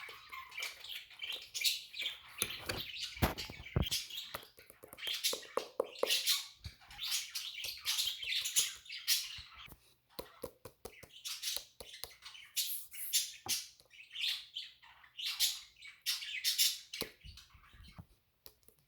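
Pet budgerigars chirping and chattering, a steady stream of short high calls. There are a couple of soft knocks about three seconds in.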